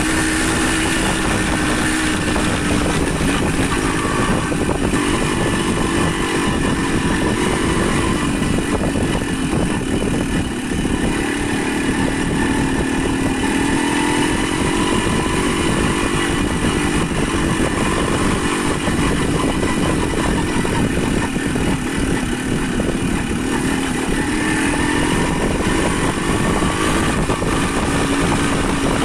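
Motorcycle engine running while riding, its pitch rising and falling gently with engine speed, over a steady rush of wind and road noise.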